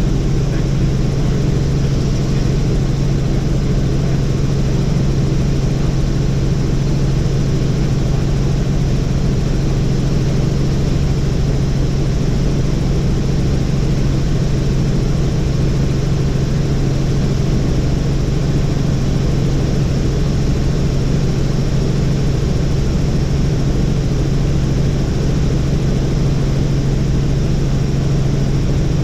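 Helicopter in flight: a steady, unchanging drone of engine and rotors with a strong low hum.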